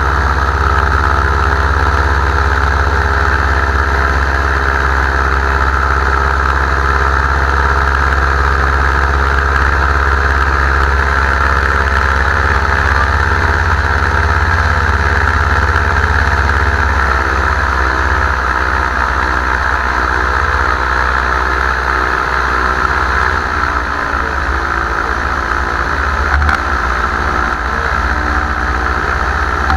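Paramotor engine and propeller running steadily in flight, its pitch dipping slightly a couple of times.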